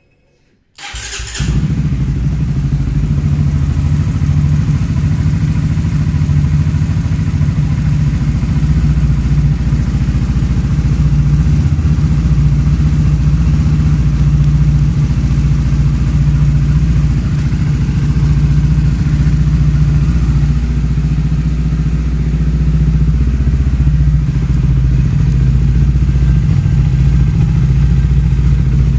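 Honda CBR motorcycle engine starting about a second in, then idling steadily with a ticking from inside the engine, which the owner takes for a fault.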